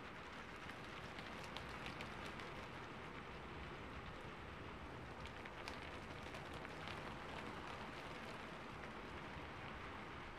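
Steady, quiet rain: an even patter with scattered drop ticks.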